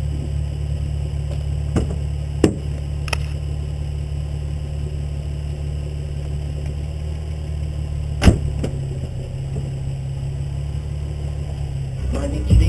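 Nissan 350Z's V6 engine idling steadily, heard close to the front wheel, with a few short sharp knocks.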